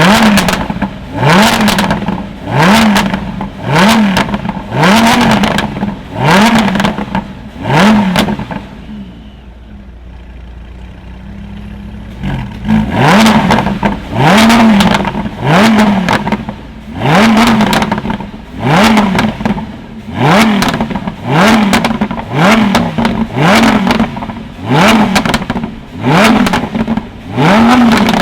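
A tuned car's engine is revved through its exhaust in quick, repeated blips, about one every second and a half. Near the middle it drops to idle for a few seconds, then the blips resume.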